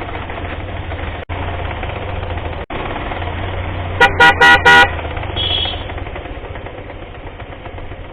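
Motorcycle running on the road with steady engine and wind noise; the sound cuts out for an instant twice in the first three seconds. About four seconds in, a vehicle horn gives four short, loud toots in quick succession.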